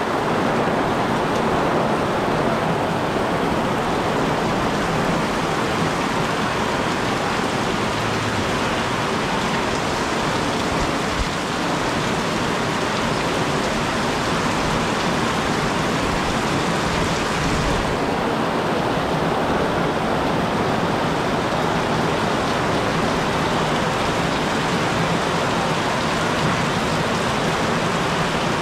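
Very heavy rain pouring down onto the wet street, a loud, steady hiss of water.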